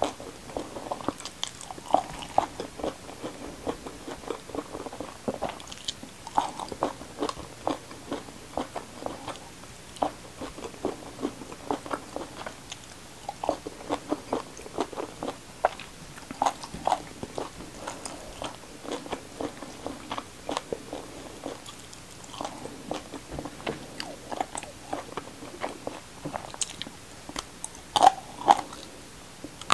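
Close-miked chewing of a mouthful of rice with fried pomfret and raw vegetables: a steady run of short crunches and wet mouth clicks, with a few louder crunches near the end.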